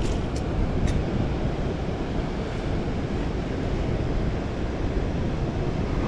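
Steady rushing of fast-moving water mixed with wind buffeting the microphone, with a couple of faint clicks in the first second.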